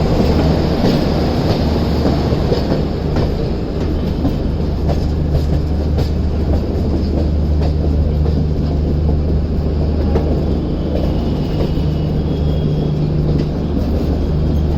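Passenger express train running along the track: a steady rumble of wheels on rail with a constant low hum underneath.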